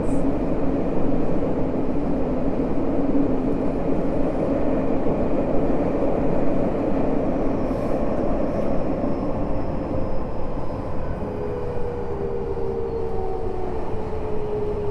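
Interior running noise of a Tokyo Metro 05 series train in the tunnel: steady wheel and rail rumble. In the latter part, the Mitsubishi IGBT inverter and traction-motor whine falls steadily in pitch as the train slows.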